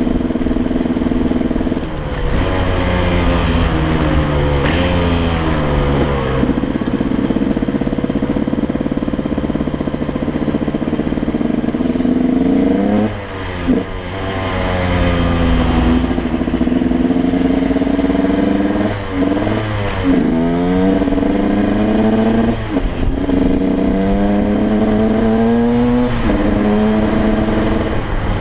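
2006 KTM 125 EXC's two-stroke single-cylinder engine being ridden on the road, its pitch rising and falling with the throttle. It breaks off briefly several times, deepest about halfway through, each time climbing again as the throttle reopens.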